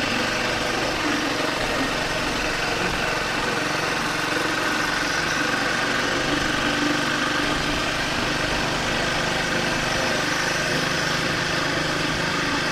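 Triumph Speed 400's single-cylinder engine running steadily under way, with wind noise throughout.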